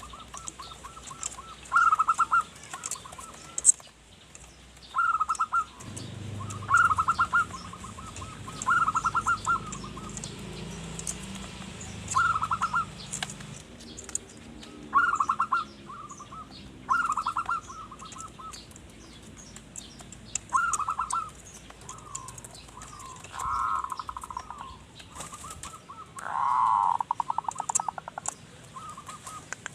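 Zebra dove (perkutut) cooing: about ten short phrases of fast, staccato notes repeated every second or two, the last one near the end the longest. Faint high chirps of other small birds sound throughout, and a low rumble runs underneath for several seconds about a fifth of the way in.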